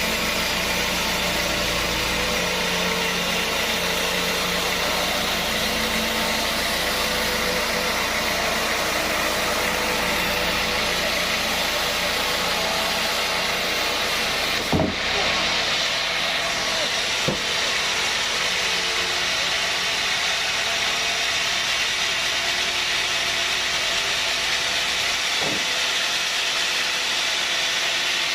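Sawmill machinery running steadily, a constant dense noise with a motor hum underneath. A sharp knock about halfway through, and a smaller one a few seconds later.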